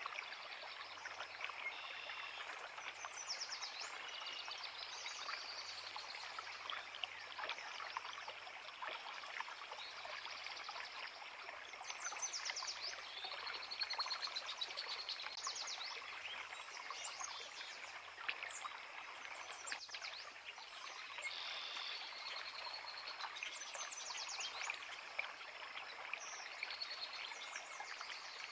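Creek water running over rocks with a steady rushing sound, while small songbirds sing short, rapid trills again and again throughout.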